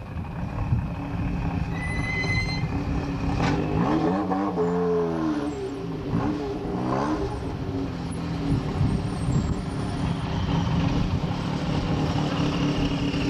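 Rally car engines running at idle in a queue. One engine is revved up and back down a couple of times, about four to seven seconds in.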